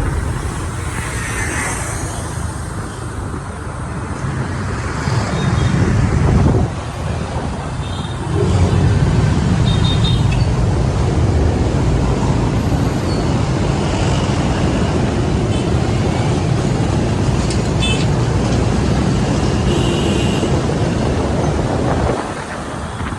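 Riding a motor scooter through busy city street traffic: a continuous rumble of engines and road noise, getting louder about eight seconds in and easing off near the end.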